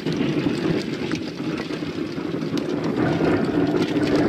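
Rain falling over a continuous low rumble, with a steady patter of small drop ticks.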